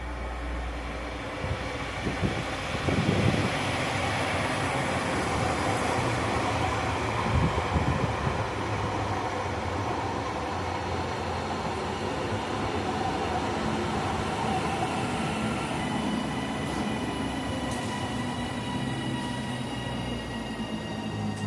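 Class 331 electric multiple unit 331 105 running into the station: continuous rumble of wheels on rail, with heavier thumps a few seconds in and again a few seconds later, and a steady high whine joining about two-thirds of the way through as it slows.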